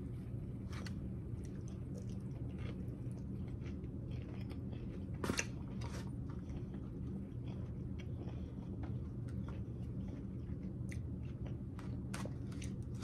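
Close-up chewing and crunching of a beet and cucumber salad, with scattered small crunches and mouth clicks and a couple of louder crunches about five and six seconds in. A steady low hum runs underneath.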